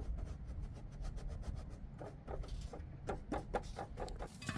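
Quick, repeated scraping strokes, several a second, in two runs with a short pause between, over a low rumble.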